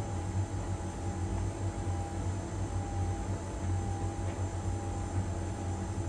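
LG heat pump dryer running in its drying phase: a steady low hum with a constant higher tone above it and a light hiss.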